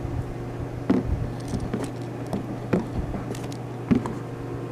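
Soapy water being dabbed onto a new refrigerant service port fitting to leak-check it under nitrogen pressure: a handful of soft wet squishes and light taps over a steady low hum.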